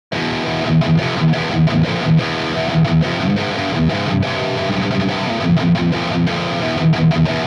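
Distorted electric guitar through a 5150-style high-gain amp boosted by an EarthQuaker Devices Plumes overdrive in its clean-drive mode, heard from a miked Mesa V30 speaker. A fast riff of short low note hits and chords, cut off sharply at the end.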